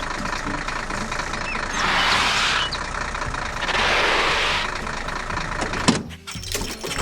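A heavy construction vehicle's engine running steadily, with hissing swells about every two seconds. Near the end there is a click and the sound changes abruptly.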